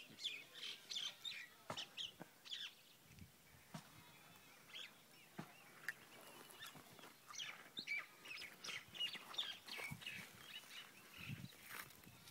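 Small birds chirping and calling outdoors: many short, high calls scattered throughout.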